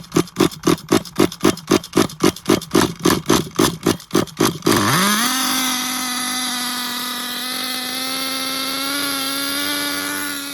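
Dynamite Big Red nitro engine of an XTM Mammoth RC monster truck, chugging in even pulses about four to five times a second. About four and a half seconds in it rises in pitch, catches and settles into a steady, high-pitched run as it begins to warm up.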